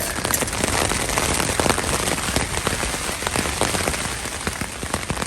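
Rain hitting a backpacking tent's fly in a storm, a dense steady hiss with many sharp drop ticks, along with wind gusting against the tent, heard from inside.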